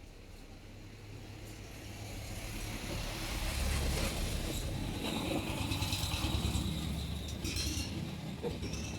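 Motorcycle engine running, growing louder over the first three seconds and then holding steady with a low rumble.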